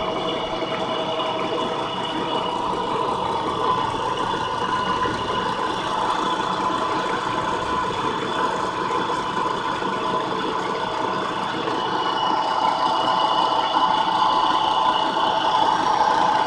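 Homemade PVC water pump driven by a washing-machine motor running steadily, a constant motor hum with a whine, growing a little louder in the last few seconds.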